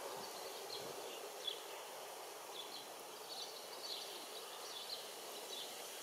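Faint outdoor ambience: a steady hiss with short, high chirps from small birds scattered irregularly through it.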